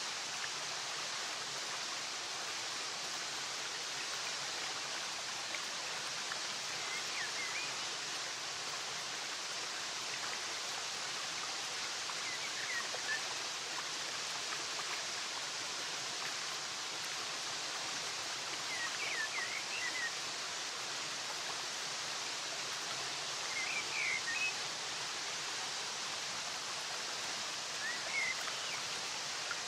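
Flowing water rushing steadily, with brief clusters of small bird chirps about five times, roughly every five seconds.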